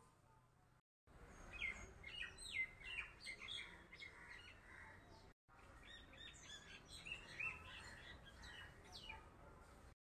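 Small birds chirping: many short, quick calls overlapping, faint. The sound drops out briefly about a second in and again about five seconds in.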